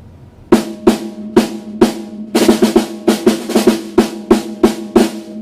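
14-inch snare drum of a 1973 Ludwig kit struck with wooden 5B drumsticks. It starts about half a second in with four evenly spaced single hits, then a quicker run of strokes, then four more single hits, each with a short ringing tone.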